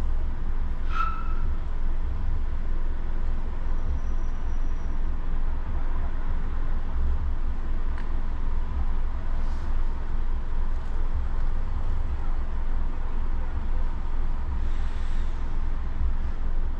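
Car driving along, heard from inside the cabin: a steady low rumble of engine and road noise with an even hiss of tyres on the road. There is a faint short chirp about a second in and a small click about eight seconds in.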